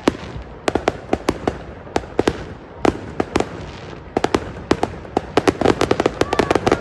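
Fireworks going off: a rapid, irregular string of sharp pops and bangs that comes thicker and faster over the last few seconds.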